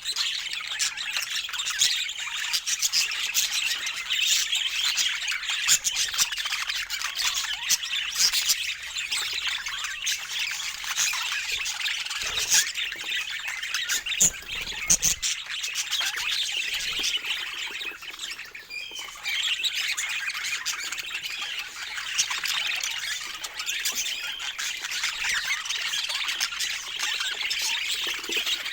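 Budgerigars chattering continuously, a dense mix of chirps, warbles and squawks, with a brief lull a little past two-thirds of the way through.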